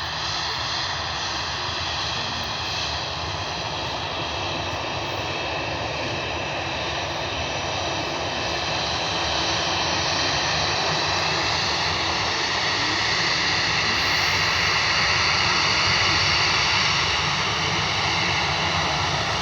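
Jet airliner's engines running: a continuous roar with a steady whine that grows louder, peaks about sixteen seconds in, then eases slightly.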